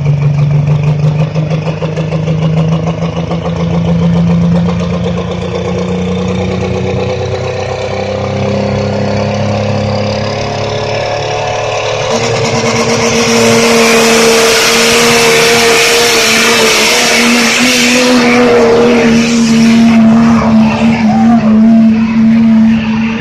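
Pulling truck's engine running hard under load, its pitch climbing slowly, then holding steady at higher revs from about twelve seconds in. A loud rushing hiss lies over it for several seconds.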